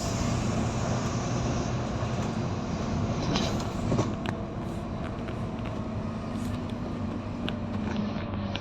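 Volvo B9TL double-decker bus's diesel engine running steadily, with a few sharp clicks and knocks.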